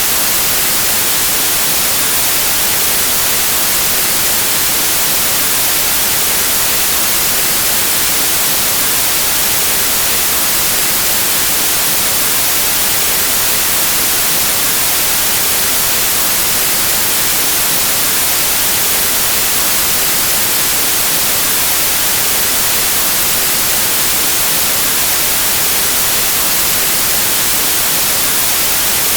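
Steady white noise: an even, unchanging static hiss, brightest in the high end.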